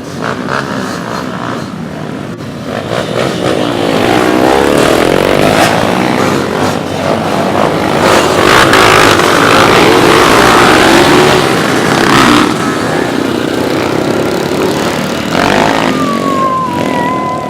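Trail motorcycle engines running and revving, their pitch rising and falling; loudest around the middle.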